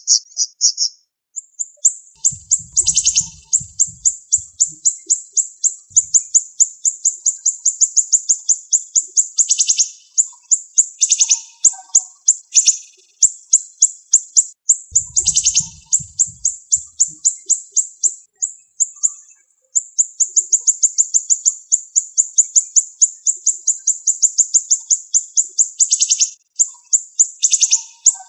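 A siri-siri songbird singing a long, fast, very high-pitched trill of closely packed notes, broken by a few short pauses.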